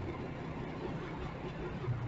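Motorcycle engine running low and steady over a haze of street and road noise; the engine note grows stronger just before the end.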